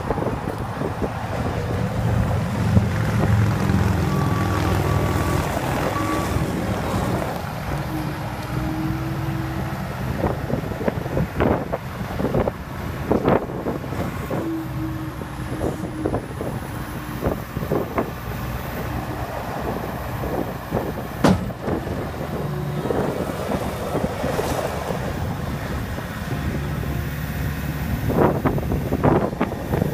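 2011 Volvo MC115C skid steer running, its engine rising and falling in speed, with scattered knocks and clanks from the machine.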